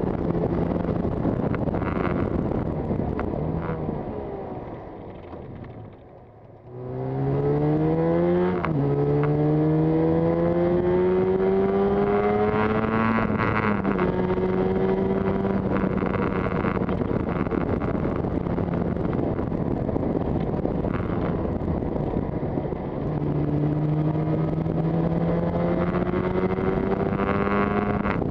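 Yamaha TZR250's two-stroke engine pulling a motorcycle along, with wind rushing over the microphone. The sound falls away about five seconds in. Then the engine picks up, its pitch rising through the gears with two upshifts, holding steady for a while, and rising again near the end.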